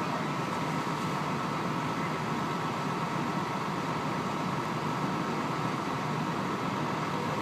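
Steady drone of heavy diesel engines idling, unbroken and even throughout.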